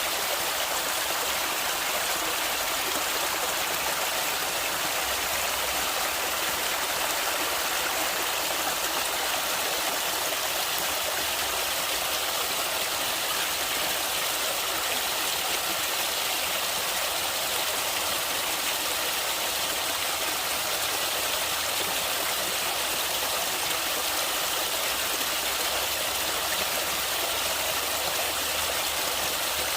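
Running water of a stream or river, a steady, even rushing hiss that doesn't change.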